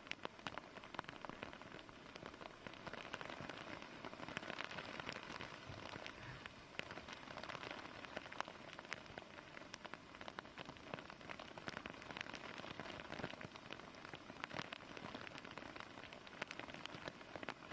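Heavy rain pouring steadily, a dense hiss with many individual drops pattering and splashing on surfaces, swelling slightly a few seconds in; rain bands ahead of a cyclone's landfall.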